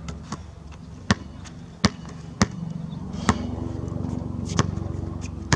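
Basketball bouncing on an outdoor court: six sharp, unevenly spaced bounces over a steady low hum.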